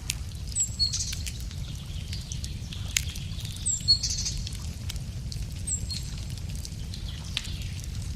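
Wood fire crackling with frequent sharp pops over a low steady rumble, while a songbird repeats the same short high phrase three times.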